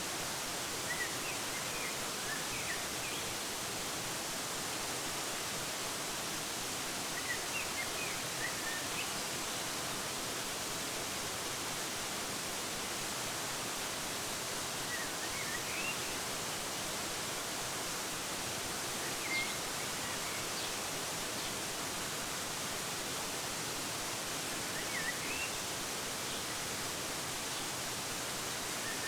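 Steady hiss of a waterfall, with small clusters of short bird chirps breaking in about five times.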